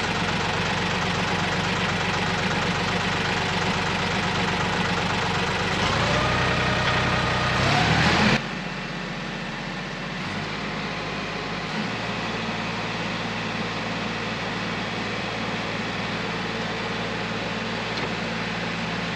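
Ford 1710 tractor's diesel engine running steadily at idle, then revving up with a rising pitch about six seconds in. A little past eight seconds the sound cuts off abruptly and gives way to a quieter steady hum.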